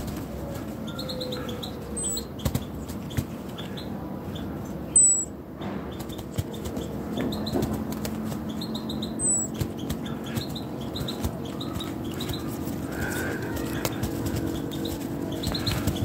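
Birds chirping, short high chirps in small groups again and again, with three sharp high whistled notes, the loudest about five seconds in. A tame blackbird flaps its wings with a rustle while perched on a hand.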